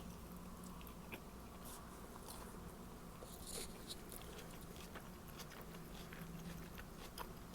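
A person chewing a mouthful of toasted sandwich: faint, scattered mouth clicks and small crunches, a little louder about three and a half seconds in, over a steady low hum.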